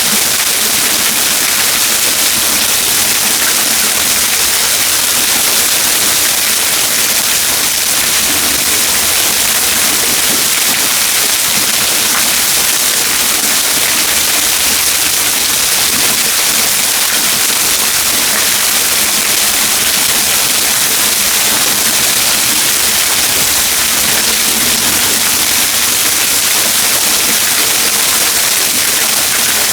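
Waterfall splashing steadily, a loud, even hiss of falling water.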